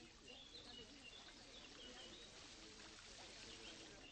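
Faint birdsong: small birds chirping in short, repeated calls over a quiet, steady outdoor hiss.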